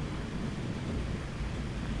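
Steady rain with a deep, continuous low rumble of thunder underneath, no sharp cracks.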